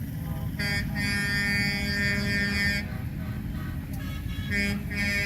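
Semi-truck air horns sounding over the low rumble of passing truck engines: one long blast of about two seconds starting about half a second in, then a short blast and another starting near the end.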